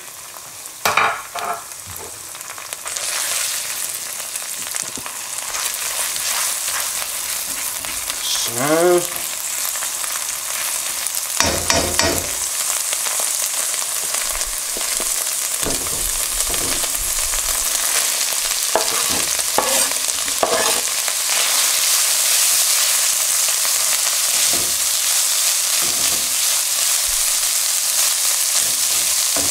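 Chopped garlic and ginger sizzling in hot coconut oil in a nonstick wok. Diced onion is tipped in from a wooden cutting board about twelve seconds in, and the sizzle grows louder and steadier. A silicone spatula stirs, with a few knocks and scrapes against the pan.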